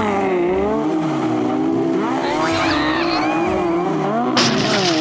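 Engines of banger racing cars revving, several pitches wavering up and down together. Near the end a sudden loud burst of noise cuts in over them.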